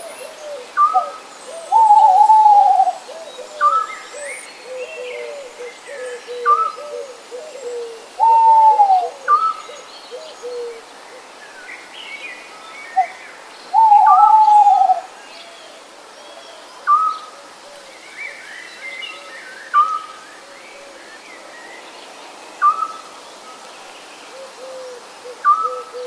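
Several birds calling. One short call comes back about every three seconds. A louder, drawn-out arched call sounds three times, and a run of quick low notes fills the first half.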